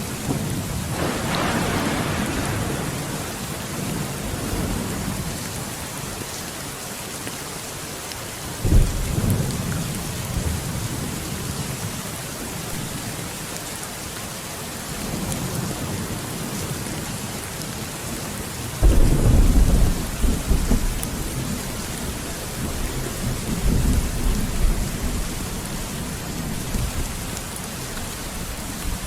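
Steady rain falling, with thunder rumbling several times over it: a sudden clap about nine seconds in, the loudest peal near the middle rolling on for a couple of seconds, and softer rumbles before and after.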